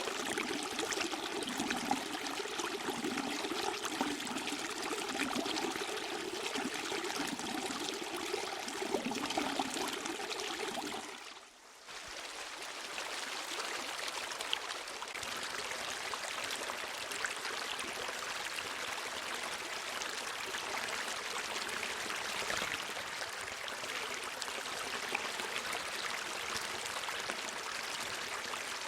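Running water, a gurgling trickle or stream, that breaks off briefly about a third of the way in. It gives way to a steadier, hissier flow of water.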